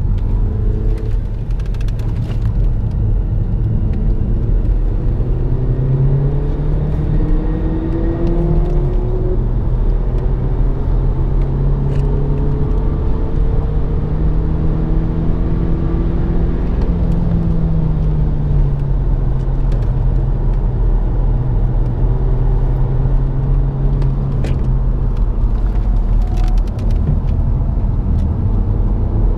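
BMW 116i F20 engine heard from inside the cabin under hard acceleration: the engine note climbs, breaks at a gear change about eight seconds in, climbs again and holds, then drops as the car slows about two-thirds through. A steady low rumble of road and tyre noise runs underneath.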